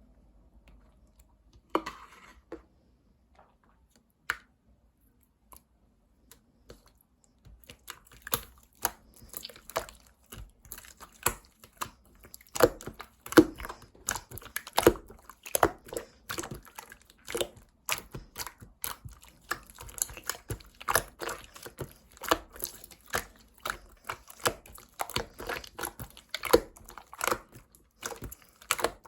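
Slime being squeezed and stretched by hand, making wet, sticky clicks and pops. Only a few isolated clicks at first, then a steady stream of popping and crackling from about seven seconds in.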